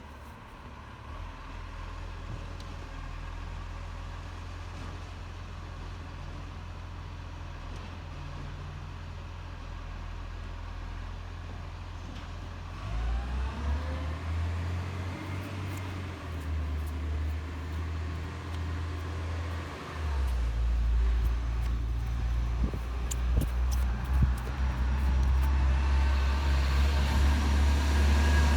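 Garbage truck engine running with a low rumble that grows louder in steps, about halfway in and again a few seconds later. A rising whine comes partway through, and a few sharp clicks sound late on.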